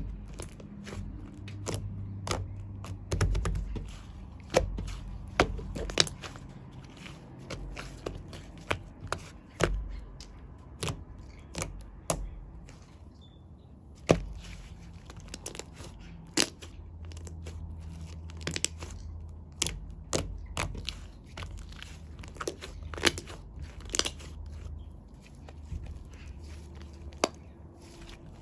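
Shaving foam being handled, with many irregular crackles, crunches and tearing clicks over a low steady hum.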